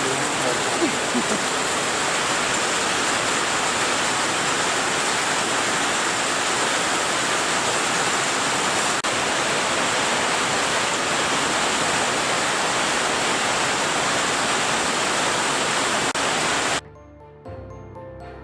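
Heavy rain pouring steadily in the rainforest, a dense even hiss. It cuts off suddenly near the end and music takes over.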